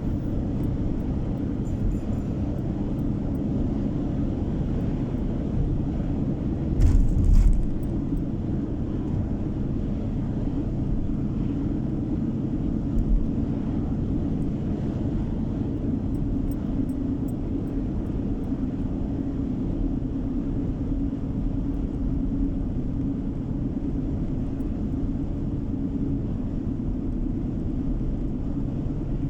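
Steady low drone of a car on the move, engine and tyre road noise heard from inside the cabin. A brief louder burst of noise comes about seven seconds in, and a smaller one a few seconds later.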